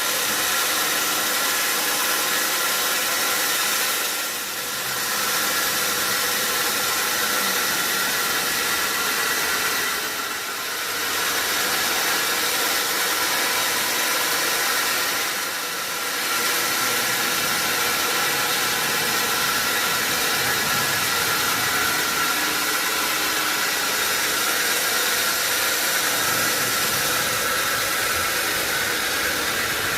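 A sawmill saw running through a log: a steady, loud whine and hiss with several held tones, easing off briefly three times.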